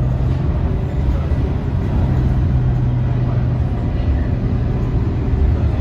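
Scania K230UB city bus under way: its diesel engine running with a steady low hum over road and tyre noise. The engine's tone drops away about half a second in and comes back about two seconds in, as the throttle is eased and reapplied.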